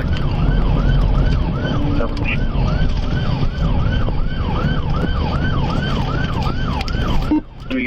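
Police car siren in a fast yelp, sweeping up and down about three times a second over a heavy low road rumble, then cutting off near the end.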